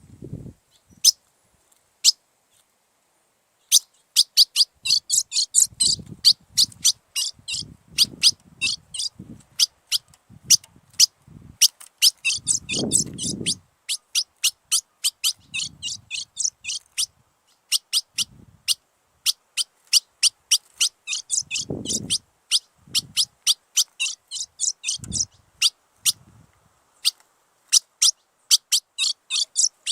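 A songbird singing a long series of short, sharp high notes, several a second, with denser trilled runs in between. It starts after a few seconds of near quiet with only scattered calls. Faint low thuds sound beneath it now and then.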